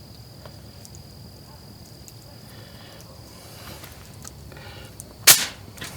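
Insects droning steadily at one high pitch, with a single loud, sharp knock about five seconds in.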